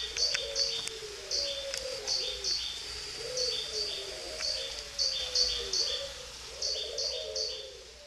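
Birds chirping: short high chirps in quick groups of three, repeating over and over, above a lower wavering call.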